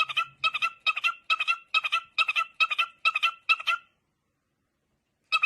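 A bird's rapid, evenly repeated calls, each a short double note, a little over two a second; they stop abruptly about four seconds in and start again near the end.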